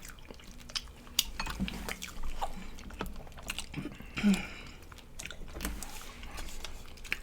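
Close-miked chewing of barbecue ribs: many quick wet clicks and smacks of mouths eating meat. About four seconds in, a brief hum from one of the eaters.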